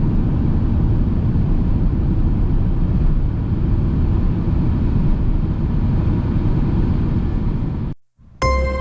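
Steady low rumble of a van driving along the road, engine and road noise together. It cuts off suddenly about eight seconds in, and soft music starts just before the end.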